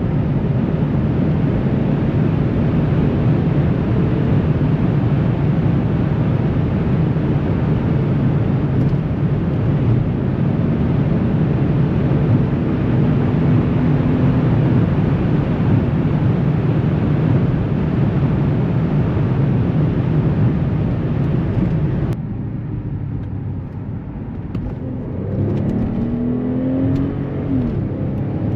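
Mercedes S65 AMG's 6.0-litre V12 biturbo engine driving at speed, under a loud, steady rush of wind and tyre noise. About 22 seconds in, the rush drops off sharply. Near the end the engine note climbs again as it accelerates.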